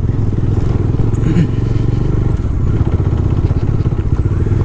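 Bajaj Dominar's single-cylinder engine running steadily with a fast even pulse while the motorcycle is ridden over a rough off-road trail.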